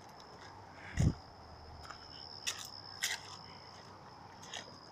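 Footsteps crunching through dry leaves and brush in woodland undergrowth: a few scattered crunches and snaps, with a heavier thump about a second in. A steady high-pitched insect drone runs underneath.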